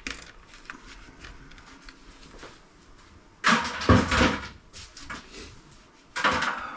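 Handling noise of small scrap electronic parts and cut wire being moved about on a workbench: light scattered clicks, with two louder bursts of clatter about three and a half and six seconds in.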